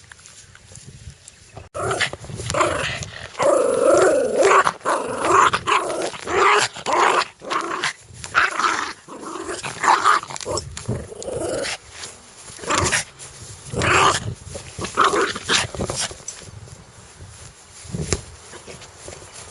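A dog growling aggressively in repeated, irregular bursts that start suddenly about two seconds in, with a few short, sharp barks mixed in toward the end.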